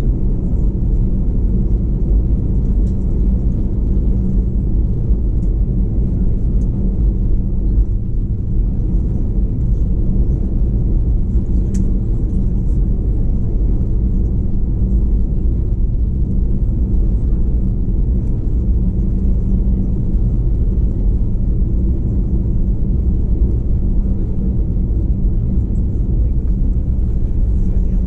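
Steady low rumble inside the cabin of an Airbus A321, its engines running evenly with no rise or fall in pitch, and a faint click about twelve seconds in.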